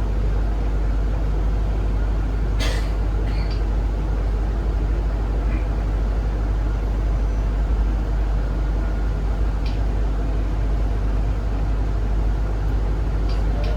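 Zhongtong hybrid range-extender city bus running, heard from inside: a steady low rumble, with a brief sharp hiss about two and a half seconds in and a few faint clicks later.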